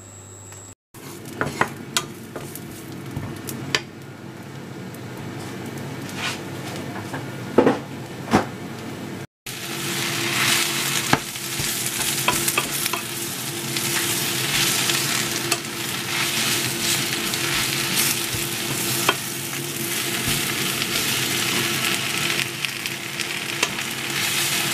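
Frying-pan sizzle: sliced garlic frying in oil in a nonstick pan, with scattered small clicks. About nine seconds in, after a cut, the sizzle grows louder as spinach leaves wilt in the hot pan while being stirred with wooden chopsticks.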